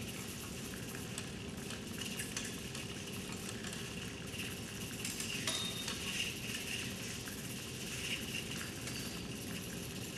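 A group of small robotic tilt mechanisms running together, whirring with a steady hum and a continuous patter of light clicks and clinks as they move dried flower stalks.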